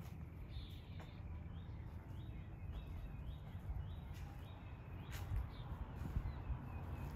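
A bird calling: a quick run of about seven repeated chirps over a steady low background rumble.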